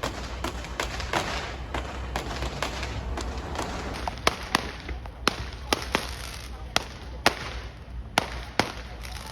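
A series of sharp bangs and pops at irregular intervals over a noisy background, louder and sharper from about halfway through.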